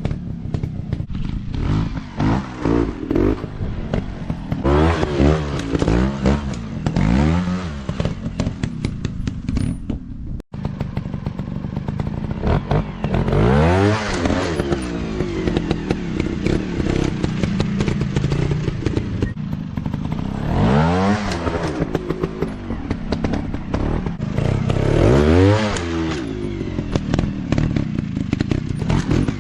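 Dirt bike engines revving in repeated bursts, the pitch climbing and falling every few seconds as the throttle is worked. There is a brief break in the sound about ten seconds in.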